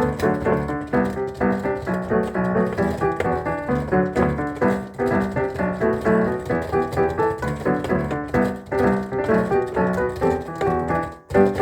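Piano playing a melody over chords, breaking off briefly near the end before starting again.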